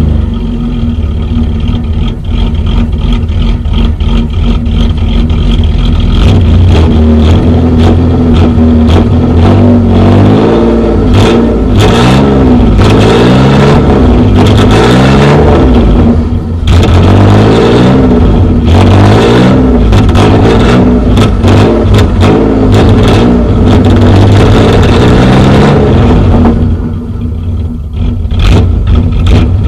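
Pontiac Firebird's 3.8-litre V6 running loud through its exhaust: steady for the first third, then revved up and down over and over, the pitch rising and falling with each blip, before dropping back near the end.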